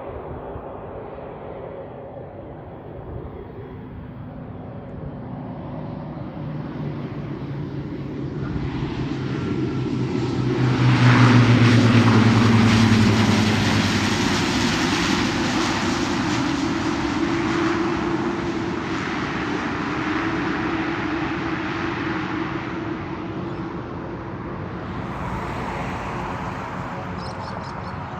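QantasLink airliner passing close by. Its engine noise builds to a peak about eleven seconds in, drops in pitch as it goes by, then slowly fades.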